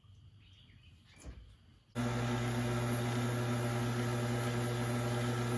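Wen wood lathe's motor starting up and running at a steady speed with a constant hum, starting abruptly about two seconds in.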